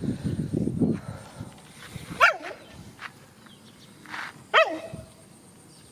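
A dog gives two short, high yelps a couple of seconds apart, each sharply rising and falling in pitch, after a low rough noise in the first second.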